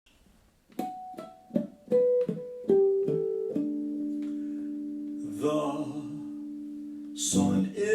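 Guitar intro: a run of single plucked notes, then a chord left ringing for several seconds, with strumming starting near the end.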